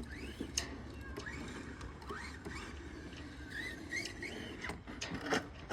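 Small electric RC motorcycle motor whining, rising and falling in pitch as the throttle is blipped, with a few sharp knocks, the loudest near the end.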